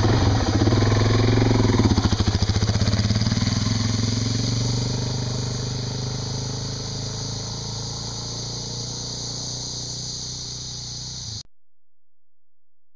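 Suzuki dual-sport motorcycle engine running, loudest over the first few seconds and then gradually fading; the sound cuts off abruptly near the end.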